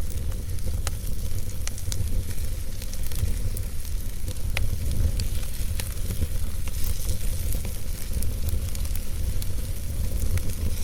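Wood logs burning in a fireplace, crackling with frequent sharp pops at irregular intervals over a steady low rumble and hiss.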